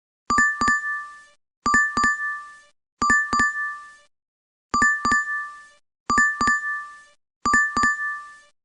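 DoorDash app notification chime, looping: a quick double ding that rings out for about a second and fades, six times over.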